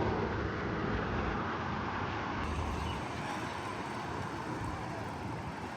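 Steady outdoor background noise, a mix of rumble and hiss, with a low rumble that eases about three seconds in.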